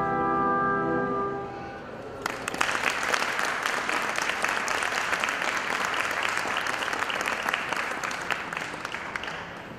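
The last held chord of a musical number fades out, then an audience applauds for about seven seconds, dying down near the end.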